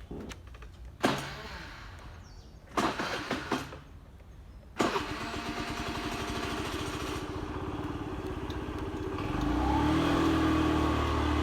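Motorcycle engine being started: two short tries that die away, then it catches about five seconds in and settles into a steady idle. It grows louder and deeper near the end as the engine is revved or the bike moves off.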